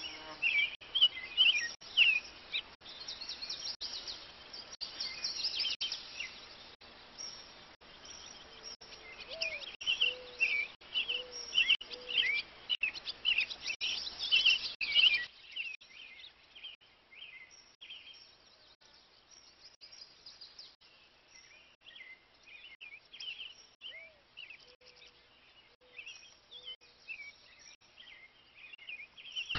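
Several birds chirping and calling, with a short run of lower repeated notes now and then. A steady background hiss under them stops abruptly about halfway through.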